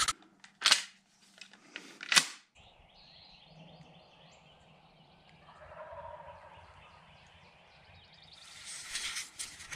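Two sharp handling knocks, then faint outdoor quiet with a distant wild turkey gobble about six seconds in, and rustling near the end.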